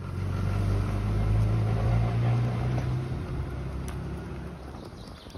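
Vehicle engine running steadily at low revs, heard from inside the cabin; the hum swells in the first couple of seconds and eases off toward the end.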